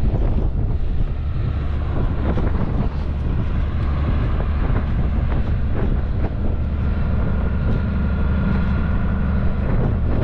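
Tractor engine running steadily, with wind buffeting the microphone and a few light knocks.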